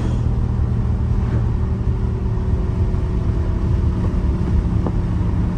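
Dodge Charger Scat Pack's 6.4-litre HEMI V8, running without catalytic converters, droning steadily at a constant cruise with no revving, heard from inside the cabin along with road noise.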